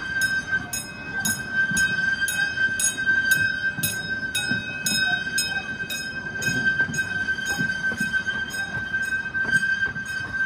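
Small amusement-park tour train running along its track, heard from an open passenger car: a steady high whine and a rhythmic low clatter about twice a second, with light music playing over it.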